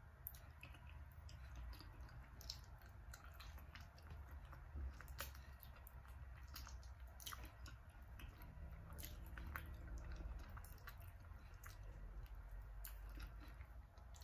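Faint, wet mouth sounds of chewing and sucking on chicken feet cooked in coconut milk, with many small scattered clicks as the little bones are picked clean, over a low steady hum.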